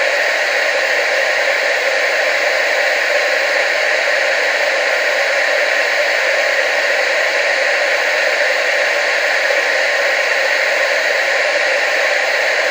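Analog TV static: a steady, unbroken hiss, strongest in the middle and upper range with almost no low end.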